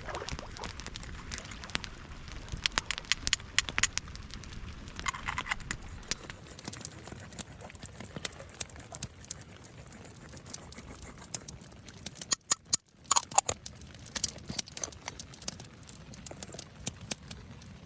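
Rain pattering and a wet campfire crackling: a dense, irregular scatter of sharp pops and taps over a faint hiss, with a short lull about two-thirds of the way through.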